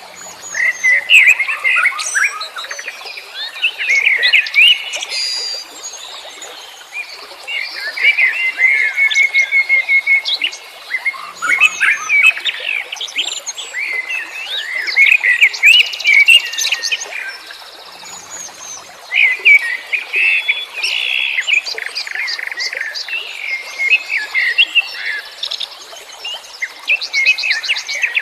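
Wild songbirds chirping and singing in bursts of varied twittering phrases and fast trills, a new phrase every few seconds with short pauses between.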